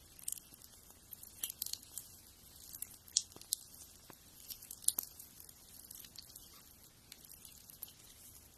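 A fingernail being filed: a scratchy high hiss broken by irregular sharp clicks.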